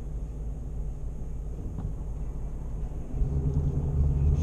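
Car engine and road rumble. About three seconds in the engine note grows louder and climbs a little in pitch as the car accelerates.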